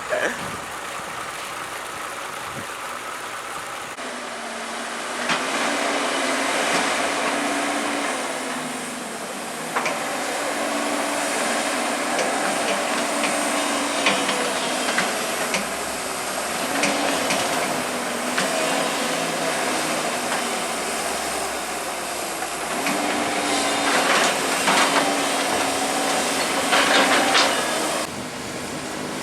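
Komatsu hydraulic excavator working: its diesel engine running under load, the pitch rising and falling as the hydraulics work, louder from about four seconds in. Several sharp clanks, most of them near the end.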